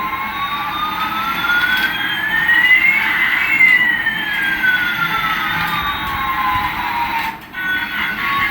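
Electronic siren-like tone gliding slowly up in pitch for about three seconds and then back down, with a fainter tone sweeping the opposite way. It cuts off shortly before the end.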